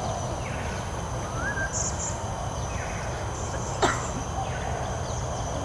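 Outdoor garden ambience: a steady low rumble with birds chirping now and then, and one sharp click about four seconds in.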